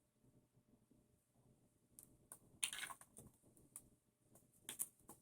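Small hard tools being handled and rummaged through, giving a scatter of light clicks and rattles that start about two seconds in after a near-silent stretch.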